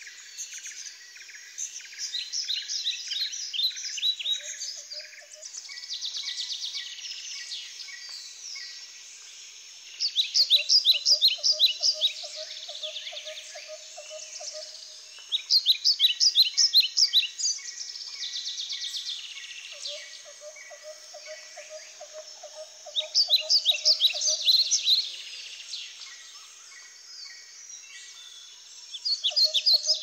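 Several birds calling together: rapid high chirping trills come in loud bouts every five or six seconds. Under them a lower, rapidly pulsed trill repeats for a few seconds at a time, three times.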